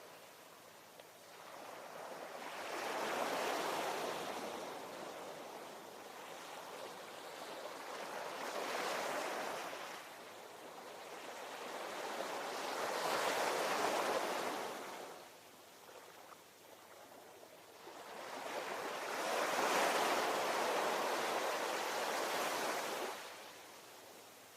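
Ocean waves breaking and washing on the shore, four surges that swell and ebb, the last one the longest, with quieter lulls between them.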